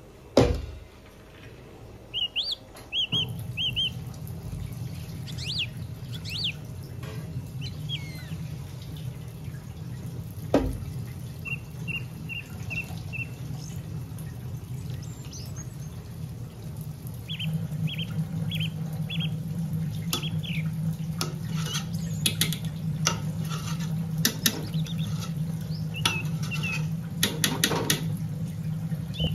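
Small birds chirping in short runs of repeated high notes, over a steady low hum. A couple of sharp knocks, one just after the start and one about ten seconds in.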